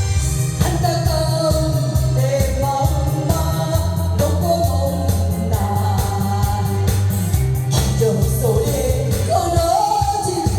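A singer performing a Korean trot song over band or backing-track accompaniment with a steady beat.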